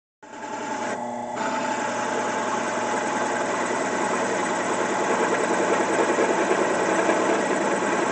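Small cheap drill press running steadily with a large bit, its motor giving a steady hum with a fixed tone. The sound cuts in abruptly after a split second of silence, and its texture changes briefly about a second in.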